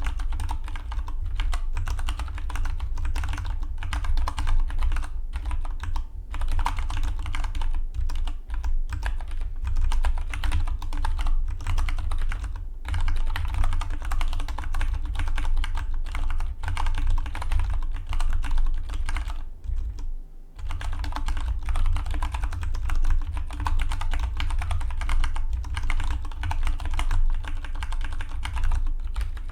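Fast continuous typing on a Dygma Defy split mechanical keyboard, a dense run of key clicks with a short pause about two-thirds of the way through.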